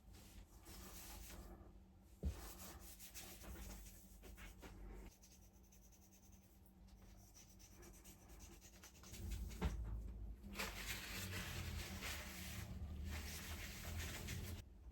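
Hand rubbing and scraping on a surface, of the kind made in cleaning or sanding a part, with a sharp knock about two seconds in and another near ten seconds. The rubbing gets louder and steadier over the last five seconds.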